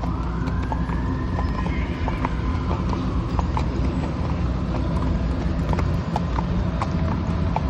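Horse hooves clip-clopping on pavement in an irregular walking rhythm, over a steady low rumble. A siren rises and falls in the first two seconds.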